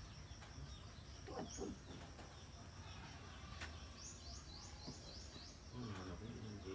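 Faint outdoor ambience with a small bird calling: a quick run of about six high chirps, each sliding down in pitch, about four seconds in.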